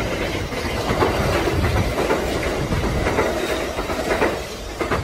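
Electric train running along the track: a steady rumble with its wheels clicking over rail joints several times.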